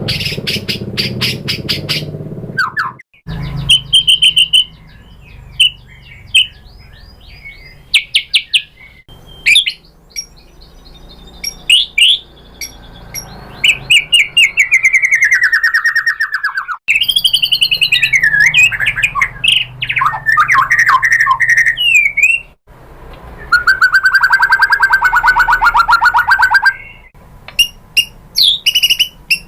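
White-rumped shama singing a loud, varied song: whistled phrases that slide up and down in pitch, mixed with rapid trills and runs of quick sharp notes, with brief pauses between phrases.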